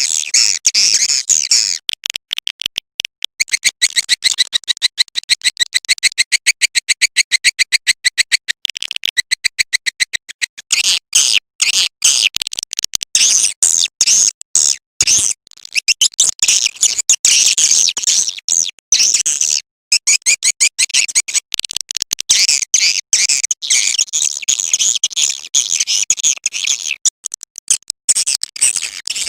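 Swiftlet call recording, the lure sound played to draw swiftlets into a nesting house. Rapid, high twittering chirps run in fast, even trains early on, then turn denser and more irregular, with brief gaps.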